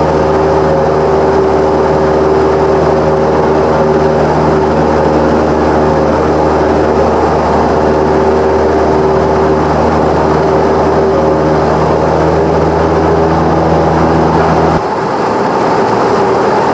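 Cessna 172's piston engine and propeller running steadily, a continuous drone heard from inside the cockpit. About fifteen seconds in the deep low hum drops away abruptly while the higher drone carries on.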